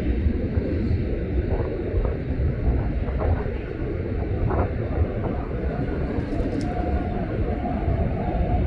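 Jet airliner on approach to land: a steady low rumble, with a faint steady whine joining about seven seconds in.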